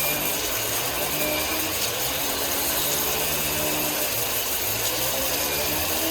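Woodworking machinery running steadily: a dense whirring noise with a low hum that shifts up and down in pitch every second or so.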